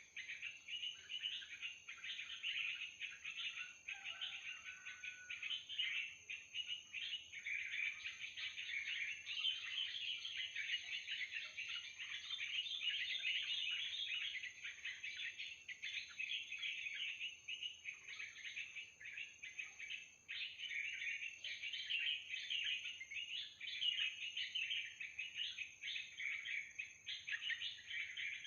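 Dense, unbroken chattering calls of yellow-vented bulbuls (trucukan), with a thin steady high tone running beneath them.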